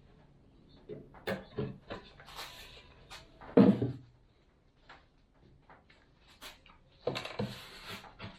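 Knocks and clatter of wooden cabinet parts being handled and set down, with a heavier bump about three and a half seconds in and a brief scraping rustle near the end.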